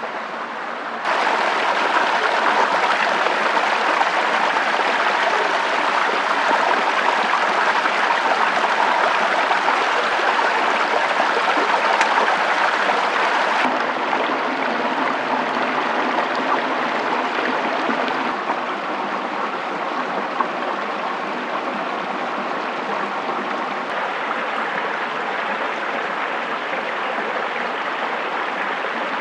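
Steady rushing water, an even hiss. It gets abruptly louder about a second in and changes character twice later on.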